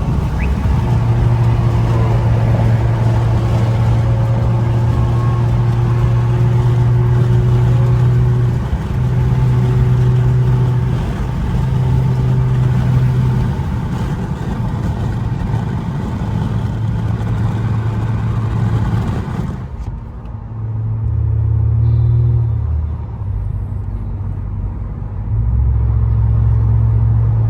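Infiniti Q50's twin-turbo 3.0 V6 (VR30) exhaust droning steadily while cruising, heard from inside the cabin. About 20 seconds in the road hiss drops away and the drone sits deeper.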